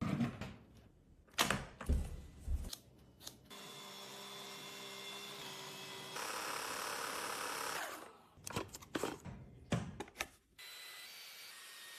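Cordless stick vacuum: a few clicks and knocks, then its motor running steadily. About six seconds in it steps up to a louder, higher power setting, then spins down a couple of seconds later, followed by more clicks.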